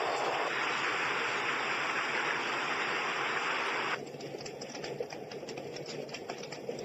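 Dreamegg Pocket Sleep 1 mini white noise machine playing its built-in sounds through its small speaker. A steady rushing noise shifts slightly about half a second in. About four seconds in it switches to a quieter crackling sound made of many small clicks.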